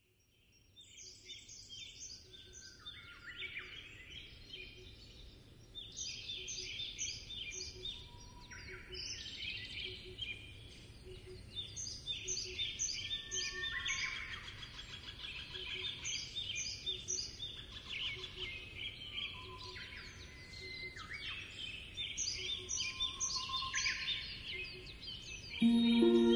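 Birds singing, fading in from silence: repeated chirping phrases and trills that overlap one another, over a faint steady background hiss. Near the end, instrumental music comes in.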